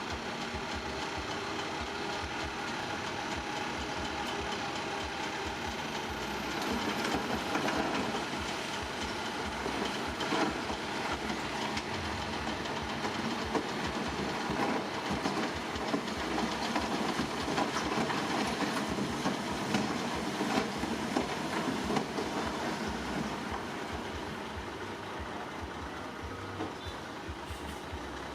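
Diesel engine of heavy earthmoving machinery running steadily, with a long stretch of rapid metallic clanking and rattling from about 7 seconds in until shortly before the end.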